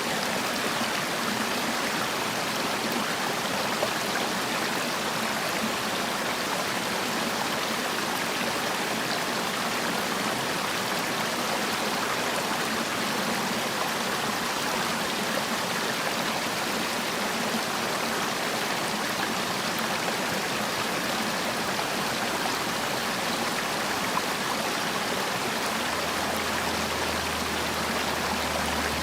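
Mountain valley stream water flowing in a steady, even rush, with no change in level. A faint low hum comes in near the end.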